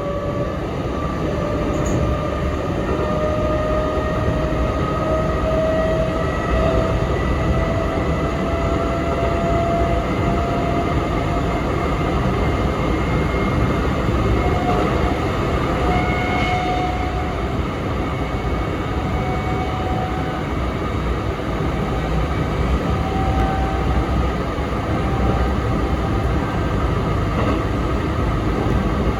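Sanyo Electric Railway 3050-series electric train running between stations, heard from inside the car: a steady rumble of wheels on rail with a faint motor whine slowly rising in pitch.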